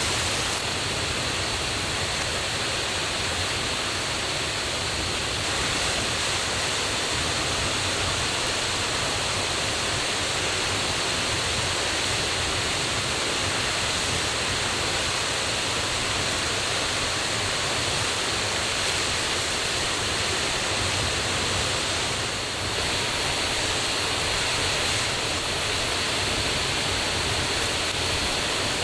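Loud, steady rush of a forest waterfall and mountain stream running high after the previous day's rain.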